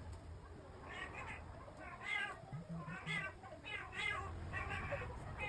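A small animal's short, high calls, repeated about eight times in quick succession from about a second in, over a low steady hum.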